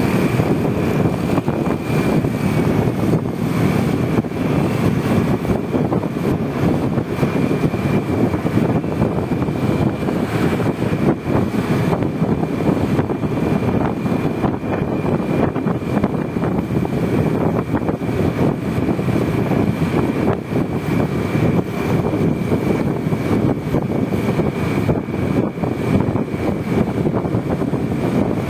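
Honda Vario 125 single-cylinder scooter underway: steady engine and road noise with wind buffeting the microphone, and a thin, steady high whine above it.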